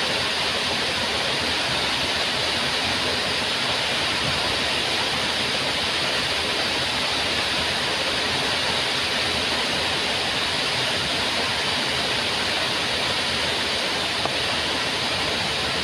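Waterfall: a steady, even rush of falling water that never lets up.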